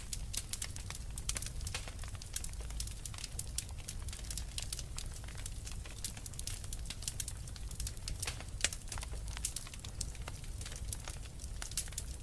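Wood fire crackling in a fireplace: frequent sharp pops and snaps, several a second, over a low steady rumble.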